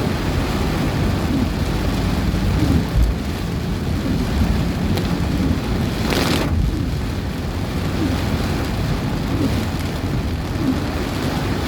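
Heavy rain pouring steadily over a low, continuous rumble. About six seconds in there is a brief, louder hiss.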